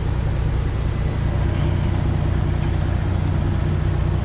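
Detroit Diesel 12.7-litre Series 60 engine of a semi truck running steadily at low revs while the truck is backed slowly toward a dock, with a steady hiss of rain over it.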